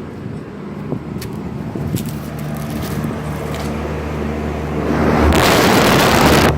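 Trane Odyssey air conditioner running, a steady machine hum with low steady tones. From about five seconds in, a loud rush of air builds up and cuts off suddenly near the end.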